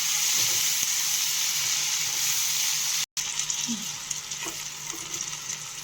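Onion and tomato frying in hot oil in a pan, a steady sizzle. About three seconds in it cuts out briefly and comes back quieter.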